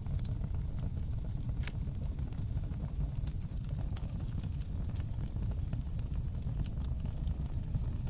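Fire crackling in a fireplace: a steady low rumble of flames with frequent small, sharp crackles at irregular intervals.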